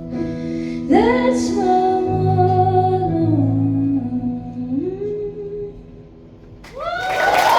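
Live female vocal singing long, wordless held notes over sustained guitar chords to close a song. Near the end the audience breaks into applause and cheering.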